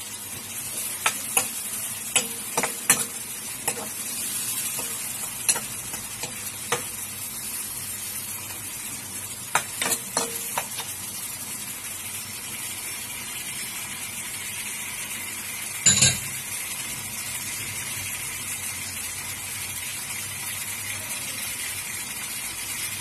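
Sliced onions and chillies sizzling steadily in hot oil in a metal karahi. A metal spoon clinks and scrapes against the pan as they are stirred through the first ten seconds or so, with one louder knock about sixteen seconds in.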